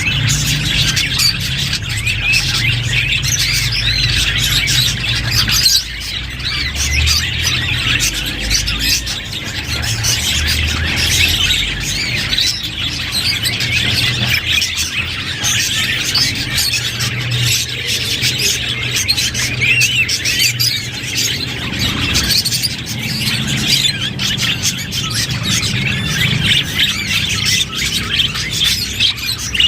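Budgerigars chirping and warbling without a break, many quick calls overlapping, over a low steady hum.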